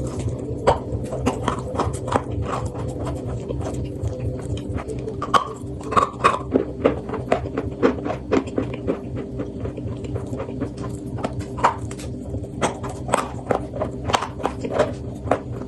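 Chalk being bitten and chewed close to the microphone: irregular sharp crunches, several a second, over a steady low hum.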